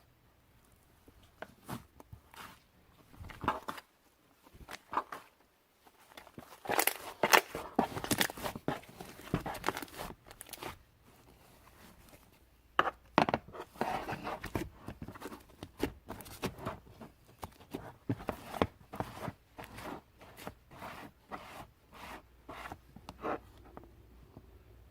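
Clay-mixed slime being squished, stretched and folded by hand, with a run of sticky popping clicks and crackles. The crackling comes thicker and louder about a third of the way in and again near the middle.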